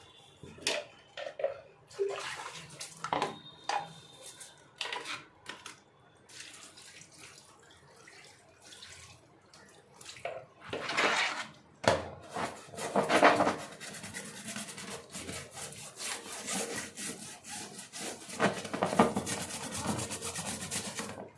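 Air-conditioner parts being washed by hand: scattered knocks and handling noises, then from about halfway in, splashing water and scrubbing in repeated surges.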